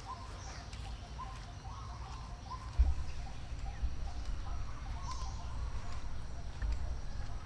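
Birds chirping in the background: short calls repeating a few times a second, with fainter high chirps, over a steady low rumble. A single sharp thump about three seconds in.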